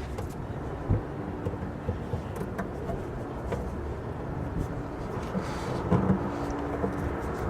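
Steady low rumble with a few light clicks and knocks of hand tools on a battery terminal as it is crimped. About five and a half seconds in, a steady hum with a couple of tones joins in.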